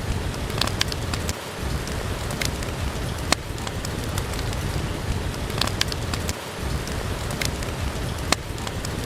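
Steady rain with a wood fire crackling, its sharp pops landing irregularly about every second or two over the constant wash of the rain.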